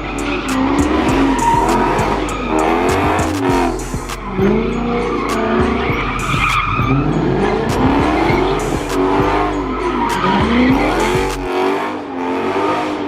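A car drifting: its engine revving up and falling back again and again while the tyres squeal, with a music beat underneath.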